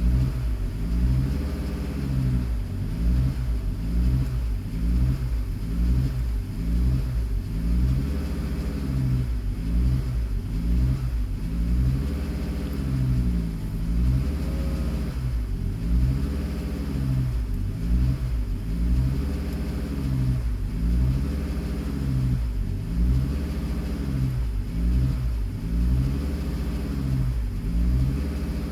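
Car engine idling unevenly, its speed rising and falling about every two seconds, a hunting idle that comes with a fault code that sets again straight after restarting.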